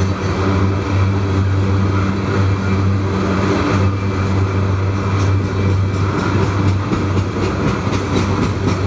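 Loaded coal hopper cars of a freight train rolling past: a loud, steady rumble of steel wheels on the rails, with repeated clicks of wheels passing over rail joints, more frequent in the second half.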